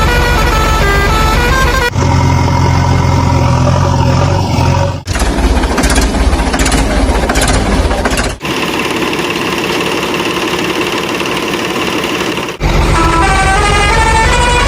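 A loud soundtrack of vehicle sound effects, engine and horn-like sounds, cut together in blocks that change abruptly every few seconds. A stepping electronic tune plays at the start and again near the end.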